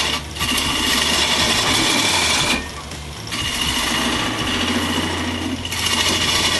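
A motor-driven machine running with a steel roughing gouge held against the spinning surface, scraping in three long passes broken by short breaks, over a steady motor hum.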